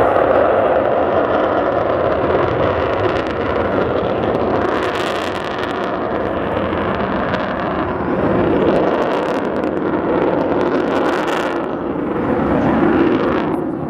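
Jet engines of the Avro Vulcan XH558 bomber running in flight: a loud, steady rushing rumble that swells and eases a few times as the aircraft flies past.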